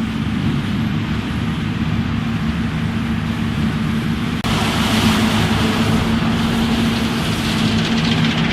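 New Holland CX 6.80 combine harvester running steadily, a low engine drone under a hiss of machinery. About four seconds in the sound changes abruptly to a louder, hissier stretch.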